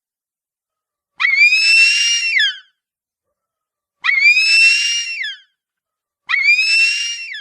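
Harpy eagle calling: three long, high-pitched wailing screams about two and a half seconds apart, each sweeping up at the start, holding steady and dropping off at the end.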